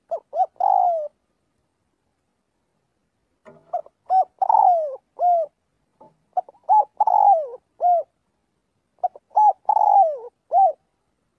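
Spotted dove cooing its calling song in repeated phrases: a couple of short coos, a longer coo that falls in pitch, then a short closing coo. There are four phrases, one every two to three seconds.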